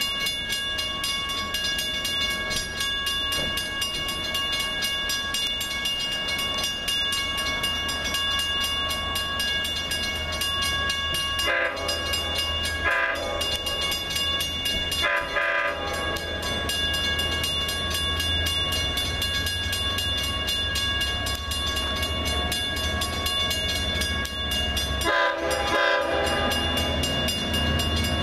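Train passing with steady running noise and a fast run of wheel clicks over the rails. The horn sounds in several blasts, a few around the middle and again near the end.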